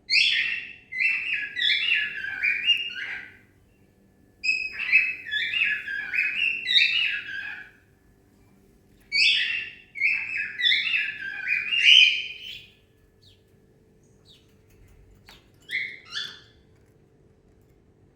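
Cockatiel singing: three warbling phrases of about three seconds each, then two short chirps near the end.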